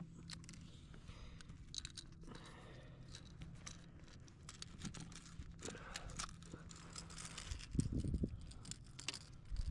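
Scattered small clicks, rustles and a few low knocks from fish and gear being handled in a kayak, with a faint steady low hum underneath. The knocks come about eight seconds in.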